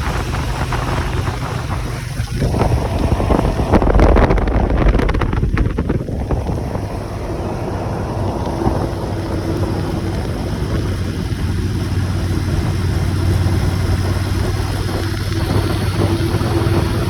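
Motorcycle engine running at a steady pace while riding, with wind rushing over the microphone. The wind rush swells to its loudest between about four and six seconds in.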